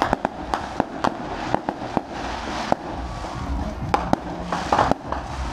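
Aerial fireworks going off in an irregular string of sharp bangs and crackles, sometimes several a second, with a quick cluster of reports about four and a half seconds in.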